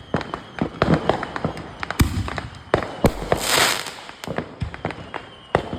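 Fireworks going off: a string of irregular sharp pops and bangs, the loudest about two and three seconds in, with about a second of hissing after the second big bang.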